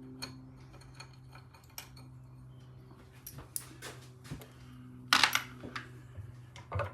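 Scattered light metallic clicks and clinks of a screwdriver and small parts being handled while dismantling a British Seagull outboard, with a louder scraping clatter about five seconds in and another near the end. A steady low hum runs underneath.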